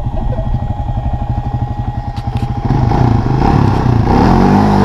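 Small off-road vehicle engine running with a rapid, even putter. It is revved harder about three seconds in, its pitch rising and then falling near the end.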